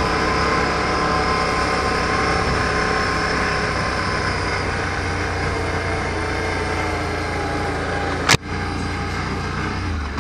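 ATV engine running at a steady pace while riding a trail, with a sharp click about eight seconds in.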